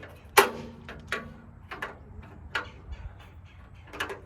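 Metal tool clinking on the nut and bracket of a tractor's rear spotlight as the nut is undone. There is a sharp, ringing metallic clank about half a second in, then lighter clicks and knocks at uneven gaps.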